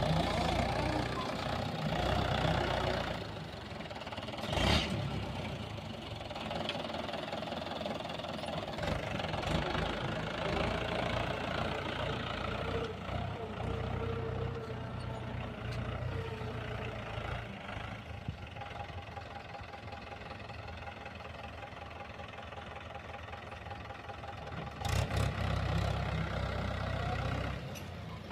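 Tractor engine running steadily while ploughing a field, growing louder for a few seconds near the end.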